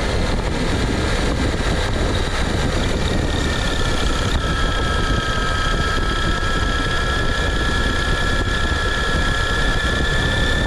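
Electric RC car running: a steady high whine from its brushless motor over rumbling noise from the chassis and wheels, with the pitch drifting slowly and growing stronger from about four seconds in.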